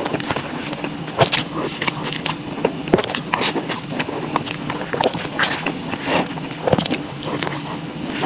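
Close-miked chewing of soft desserts: irregular wet mouth clicks, several a second, over a steady low hum.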